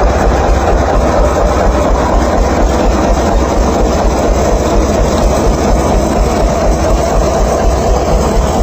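Tractor engine running steadily with a fast, even low throb.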